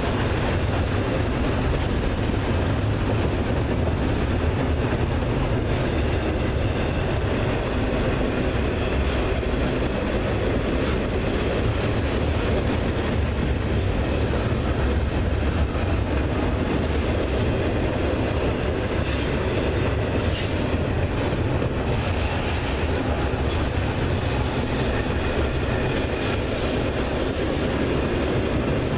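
Railroad cars rolling past with a continuous steady rumble of wheels on the rails. Brief high wheel squeals come in the second half.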